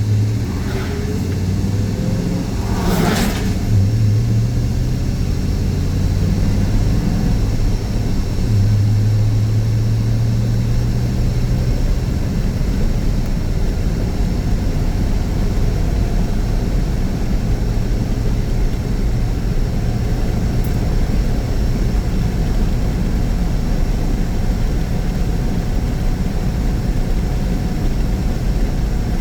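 Car engine and road noise from a moving vehicle. The engine note shifts up and down in pitch for the first ten seconds or so, then settles to a steady drone, and there is a brief whoosh about three seconds in.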